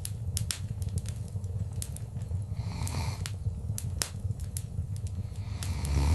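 Wood fire in a fireplace crackling, with sharp irregular pops and snaps over a low, steady rumble of the flames.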